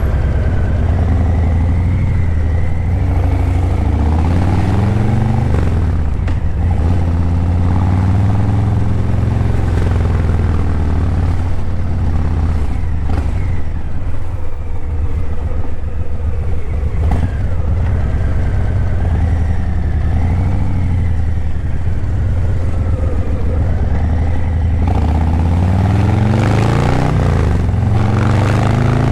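Harley-Davidson Breakout 117's Milwaukee-Eight 117 V-twin running through Vance & Hines Eliminator 300 slip-on mufflers while riding in city traffic, its pitch rising and falling several times as the bike accelerates and eases off, with the strongest rev-up near the end.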